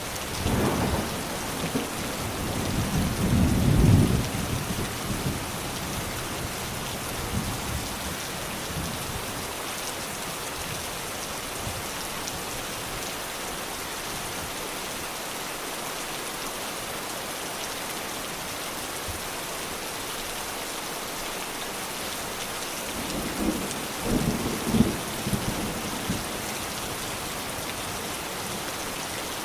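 Steady rain falling, with thunder rumbling twice: a long roll starting just after the beginning and peaking about four seconds in, and another near the end, around 23 to 26 seconds in.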